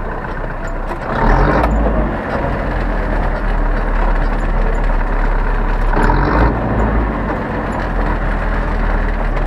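Zetor 7011 tractor's four-cylinder diesel engine running steadily under way, with two brief louder surges, about a second in and again about six seconds in.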